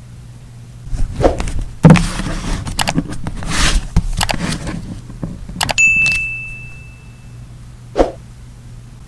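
Journaling supplies handled on a desk: paper rustling and several clicks and knocks, then a small metal object set down with a short ringing note that fades, and one sharp knock near the end.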